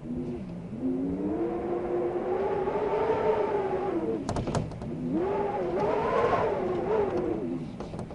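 Wind moaning in two long swells, a pitched howl that rises and falls over a rushing hiss. A few sharp clicks come about four seconds in, between the swells.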